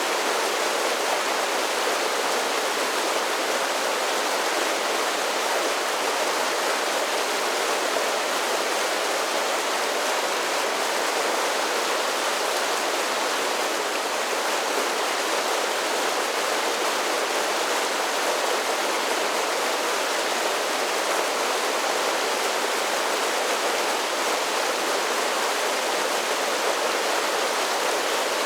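A mountain creek tumbling down a series of small falls: a steady, even rush of water with little deep rumble.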